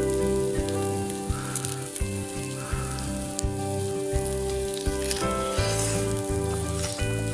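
Corned beef sizzling and crackling in a small iron frying pan over a tabletop grill, under background music with steady sustained notes.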